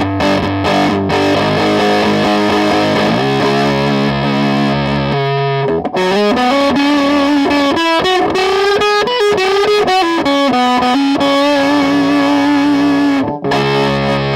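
Electric guitar played through a distortion pedal. It opens on held chords, moves into a single-note lead line with bent notes, and settles back on ringing chords.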